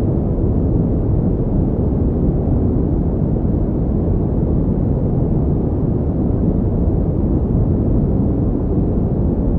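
Steady pink noise: a constant, even hiss weighted toward the low end, with no changes in level or pitch.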